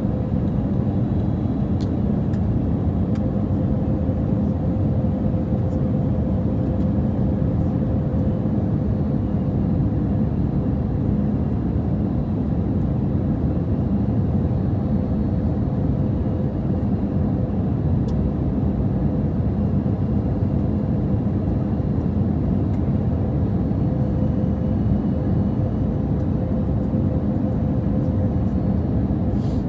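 Steady cabin noise inside an Airbus A320 airliner in flight: a constant low rumble of engines and airflow, with a faint steady hum.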